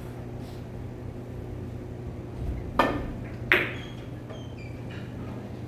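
Two sharp clicks of carom billiard balls striking, about 0.7 s apart near the middle, each with a brief ring, over a steady low hum.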